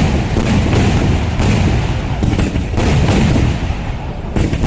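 Traditional Kerala temple fireworks (vedikkettu) going off in a rapid, continuous barrage of loud bangs, several a second, running into one another over a heavy low rumble.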